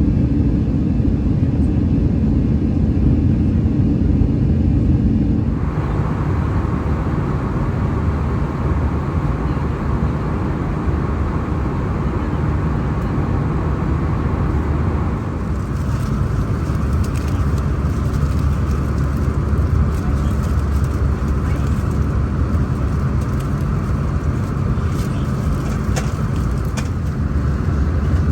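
Steady low roar of an Airbus A319 in flight, engines and airflow heard from inside the cabin. The tone shifts abruptly twice, and faint clicks and rattles come through in the later part.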